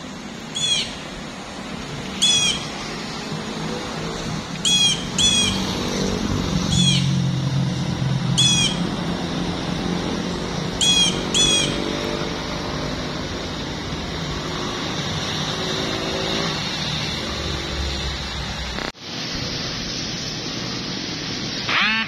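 A songbird calling: eight short, sharp high chirps scattered through the first twelve seconds, over a steady low hum. The background cuts off abruptly and changes near the end.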